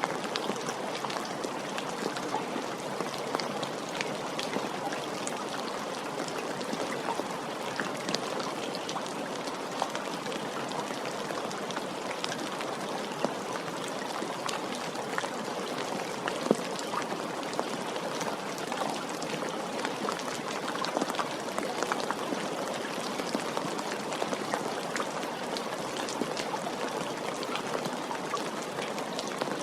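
Steady rain falling, many individual drops pattering and ticking on hard surfaces over a constant hiss, with a few louder single drop hits.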